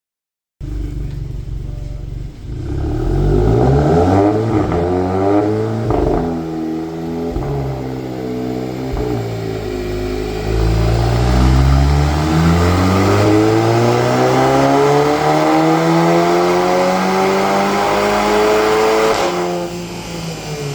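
Volkswagen Golf 7 GTI's turbocharged 2.0-litre four-cylinder engine under hard acceleration. After a few seconds of uneven rising and falling revs, it pulls in one long, steady climb in revs for about ten seconds, then the revs drop sharply near the end as the throttle is released.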